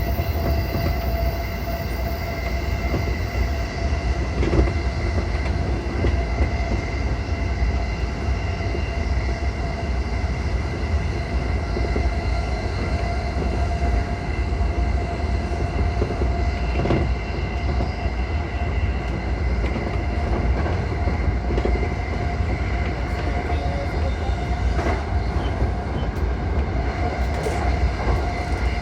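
JR East E235-1000 series electric train running along the track: a steady low rumble with a faint, steady whine over it and a few light knocks from the rails.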